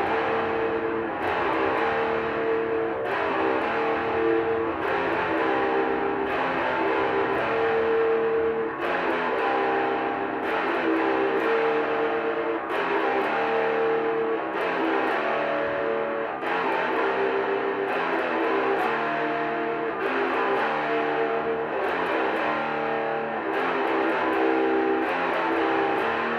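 Guitar music: sustained chords that change every second or two, with short sharp accents running through it.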